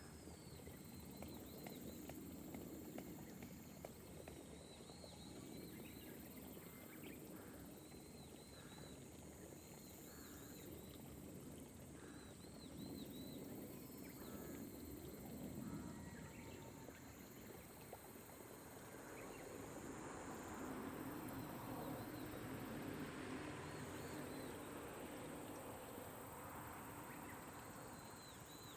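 Gentle rain over rice terraces, a faint steady hiss, with a high steady insect drone and small chirping calls repeated over and over. The rain swells a little about two-thirds of the way through.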